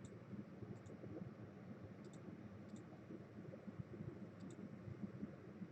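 Faint clicks of a computer mouse: about five quick pairs of clicks, spaced irregularly.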